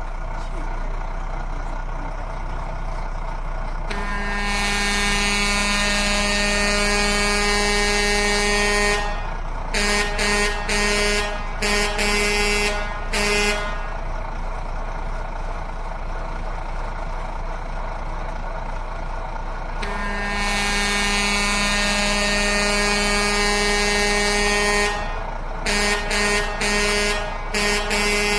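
Truck-style vehicle horn: one long blast of about five seconds, then a string of short toots, and the same pattern again, over a steady low vehicle hum.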